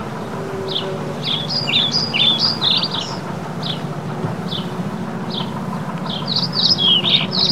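Small birds chirping at a feeding spot: short, high single chirps about once a second, broken twice by bursts of rapid twittering. A steady low rumble runs underneath.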